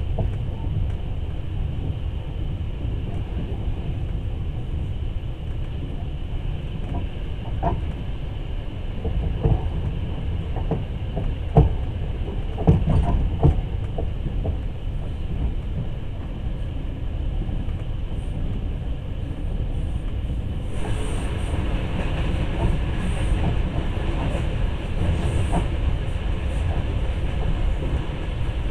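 Russian long-distance passenger train running, heard from inside a carriage: a steady low rumble with a few irregular knocks from the wheels and car. About two-thirds of the way through, a brighter rushing sound comes in and stays.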